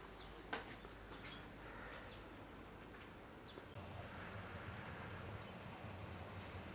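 Quiet outdoor ambience: a thin, steady, high-pitched whine that cuts off about halfway through, with scattered faint bird chirps and a few soft clicks.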